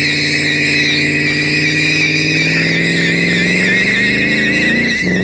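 Car engine held at high revs while its tyres squeal in a steady, wavering screech, as in a burnout. The engine note climbs slowly, then drops sharply and picks up again near the end.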